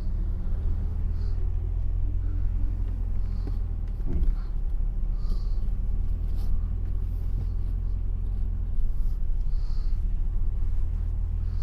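The 1980 Mercedes-Benz 500 SE's V8 runs steadily at low revs through an exhaust with its muffler deleted, giving a steady low exhaust note. There is one short knock about four seconds in.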